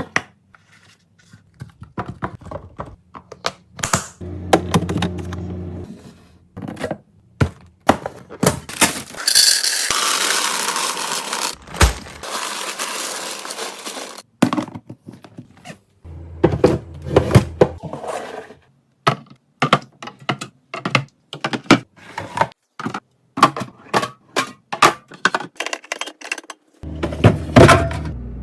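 Snack packages and plastic containers being handled and set down while stocking a fridge: many sharp taps, clicks and knocks, with a few seconds of steady rushing, rustling noise about ten seconds in.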